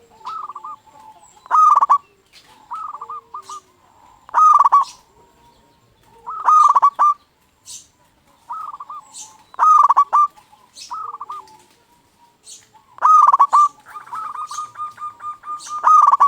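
Zebra dove (perkutut) cooing its song again and again: a loud phrase every couple of seconds with softer coos in between, and a quick run of short repeated coos near the end.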